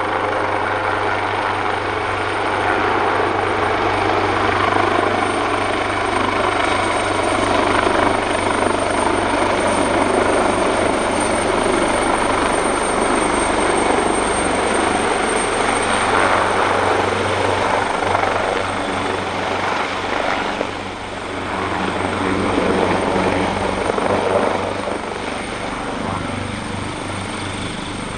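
AgustaWestland AW139 helicopter running, its two Pratt & Whitney Canada PT6C turboshaft engines and five-bladed rotor heard together: a steady high turbine whine over a low rotor hum and dense noise. The loudness dips briefly about two-thirds of the way through.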